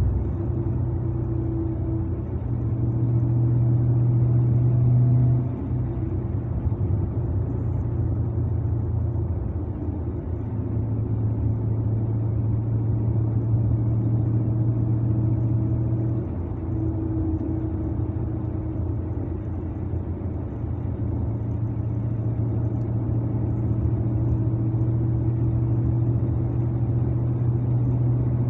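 Dodge Challenger's 392 Hemi 6.4-litre V8 running at a steady low drone while cruising, heard from inside the cabin. It swells a few seconds in, drops back sharply after about five seconds, and dips slightly again about halfway through.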